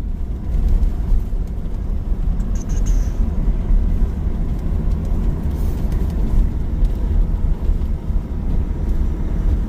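Pickup truck's engine and tyres heard from inside the cab while it drives up a mountain road: a steady low rumble.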